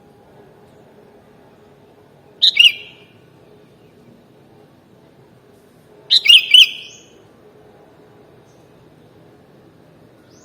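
Sooty-headed bulbul (kutilang) calling: a short burst of quick notes about two and a half seconds in, and a longer run of several quick notes about six seconds in. A faint steady background noise lies underneath.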